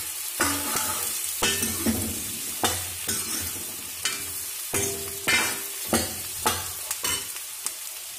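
Cubed pumpkin frying in hot mustard oil in a kadhai, sizzling steadily, while a metal ladle stirs it with repeated scraping knocks against the pan, roughly one to two strokes a second.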